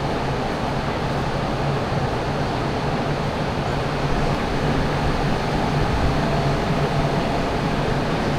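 Steady background drone of a large indoor shopping mall, with a constant low hum under an even wash of ventilation and crowd noise.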